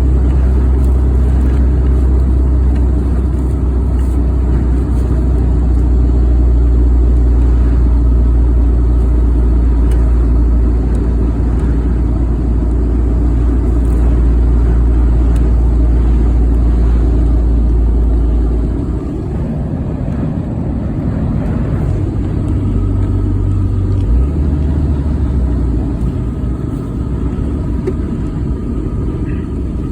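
Steady road noise inside a moving vehicle's cabin. A heavy low rumble eases off about two-thirds of the way through.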